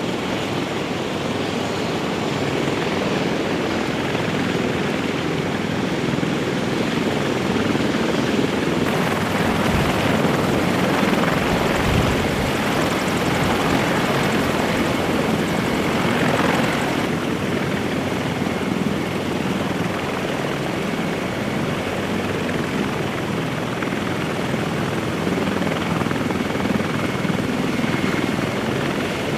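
Military rotorcraft, either Osprey tiltrotors or CH-53E helicopters, running with steady turbine and rotor noise. The sound shifts about nine seconds in and again near seventeen seconds.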